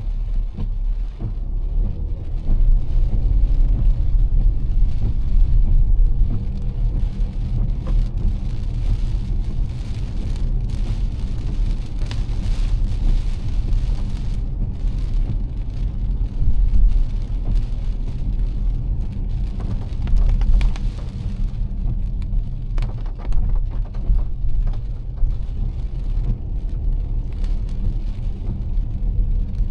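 A car driving in heavy rain: a steady low road and engine rumble under the hiss of pouring rain, with many small ticks of drops striking.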